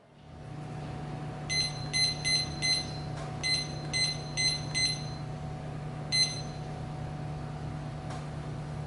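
Countertop steam-convection microwave oven running with a steady hum while its control-panel keys beep eight times in quick succession, then once more.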